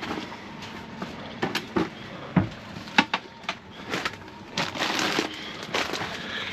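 Gear being handled and stowed: scattered knocks and clicks of objects being moved and set down, with a stretch of crinkling about two-thirds of the way through.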